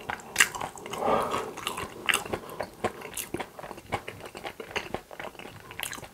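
A person chewing a mouthful of food, with many short crisp crunches.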